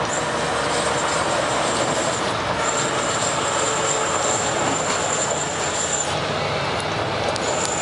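Heavy truck on the move: a steady, even rush of road and running noise. A thin high-pitched whistle sits on top of it, breaking off about two seconds in, returning and holding for about three seconds, then returning briefly near the end.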